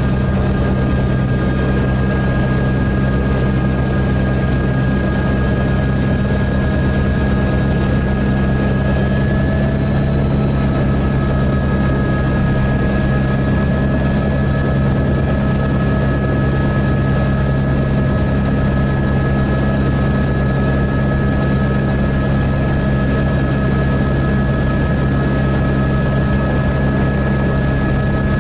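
Helicopter in flight, its rotor and engine running steadily, with a steady high whine over the low rotor drone.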